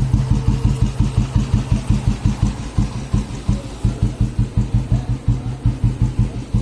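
1986 Royal Enfield Bullet's single-cylinder cast-iron engine idling slowly through a baffled Indori silencer, an even thump about five or six times a second.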